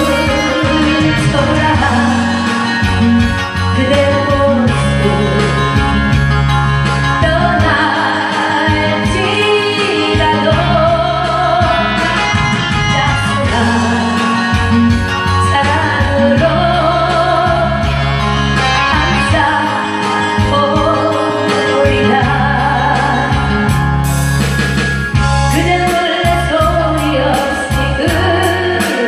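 Live singing with vibrato over a loud band accompaniment of guitar, bass and a steady beat.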